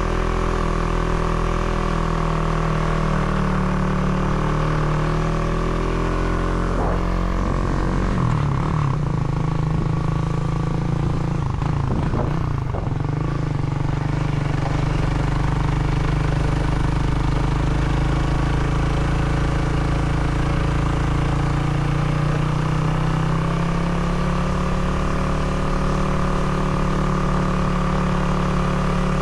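A vehicle's engine running steadily; between about seven and fourteen seconds in, its pitch shifts and glides as the speed changes, then it settles into a steady run again.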